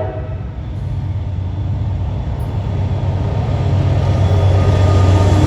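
Diesel locomotive engines giving a deep, steady rumble that grows louder as the coal train approaches.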